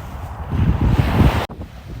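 Ocean waves washing in with wind buffeting the microphone as a rumbling noise. About one and a half seconds in the level drops suddenly and stays lower.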